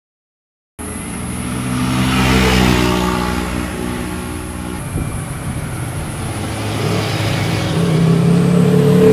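Motorcycle engines passing close: one rides by about two seconds in, its pitch dropping as it goes away, and another approaches with the engine note rising toward the end before the sound cuts off suddenly.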